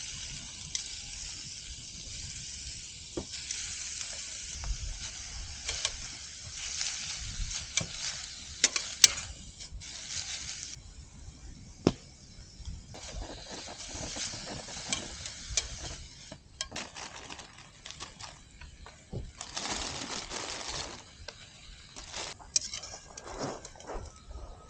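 Pork sizzling in a frying pan, the hiss rising and falling as it is stirred, with sharp clicks and scrapes of a utensil against the pan.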